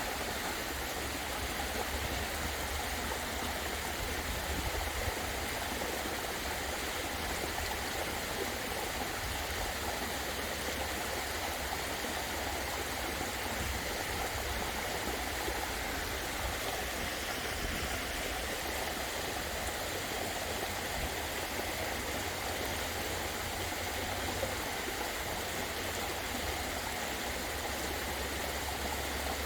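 Waterfall splashing steadily, an even rush of falling water with a low rumble under it.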